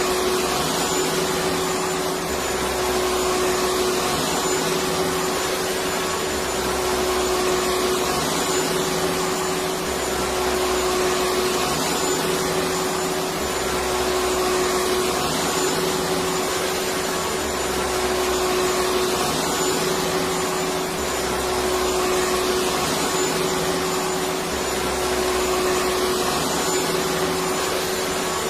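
Electric vacuum cleaner running steadily: a continuous motor whir and airflow hiss with a steady hum, a faint high whine, and a low throb that comes and goes about every two seconds.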